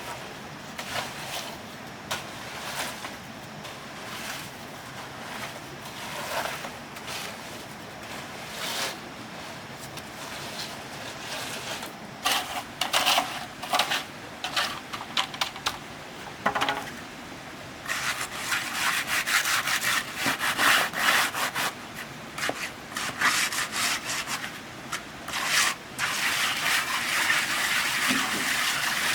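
Repeated scraping strokes of a hand tool working through a cement and sand mix. The strokes are sparse at first, then come thick and fast and louder from about two-thirds of the way in.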